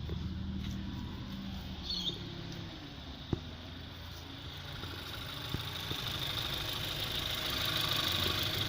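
Mazda CX-3's 2.0-litre PE petrol four-cylinder engine idling steadily, with a few light clicks over it.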